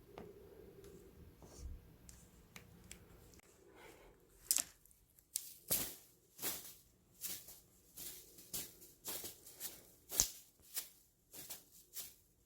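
Ragdoll cat making soft clicking, popping sounds with its mouth: about a dozen sharp clicks, roughly one and a half a second, starting a few seconds in. The owner wonders whether it is the mouth parting, the teeth knocking together, or a jaw joint problem.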